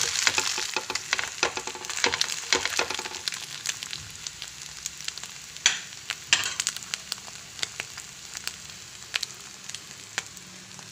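Flatbread frying in oil in a nonstick pan, sizzling with many sharp crackles and pops. The crackling is busiest in the first three seconds, then thins out, with two louder pops around the middle.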